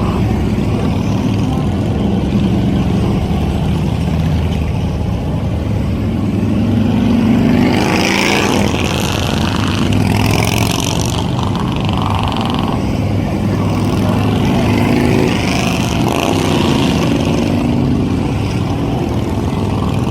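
Motorcycle engines running steadily, with one engine revving up, rising in pitch, about seven seconds in.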